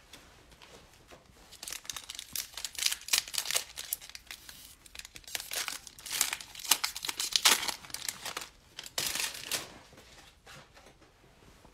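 Foil trading-card pack wrapper being torn open and crinkled, a run of crackling and ripping that starts about a second and a half in and stops near the end.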